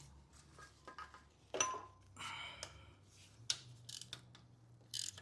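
Light metallic clicks and clinks of a socket wrench and 13 mm socket being handled on the starter bolts, with a couple of brief ringing clinks.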